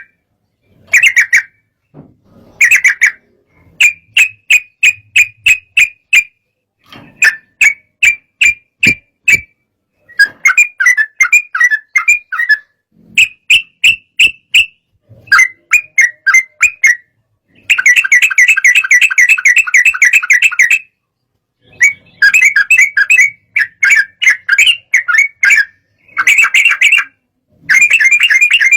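Yellow-vented bulbul singing in agitated bursts: short, rapid phrases of bubbling whistled notes, with a longer unbroken run near the middle and sharp pauses between phrases. It is the excited song that bird keepers play to provoke other bulbuls into singing.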